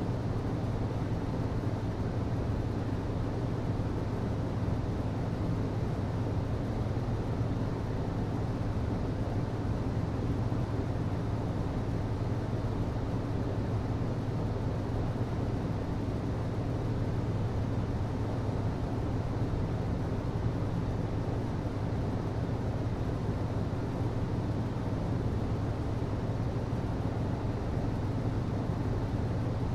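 HVAC system running: a steady low hum over an even rushing noise.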